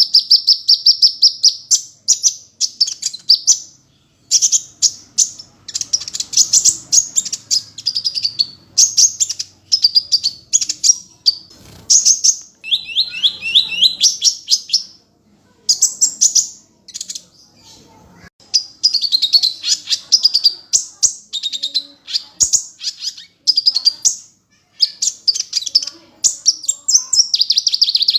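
Sunbird known in Indonesia as kolibri ninja singing: rapid, high-pitched trilled chirping in phrases a second or two long, broken by short pauses.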